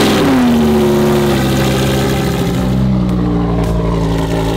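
Lamborghini supercar engine just fired up, its revs flaring and then falling back over about the first second into a steady, loud idle through the high-mounted twin exhaust.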